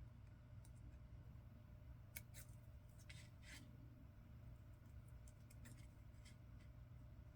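Scissors cutting, faint snips coming in small clusters a couple of seconds in and again later, over a low steady hum.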